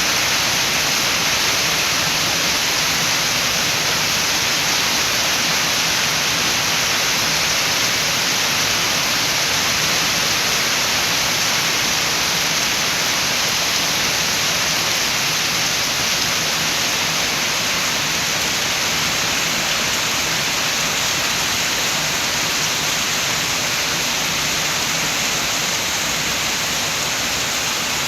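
Steady rain falling, a dense, even hiss with no single drops or gusts standing out.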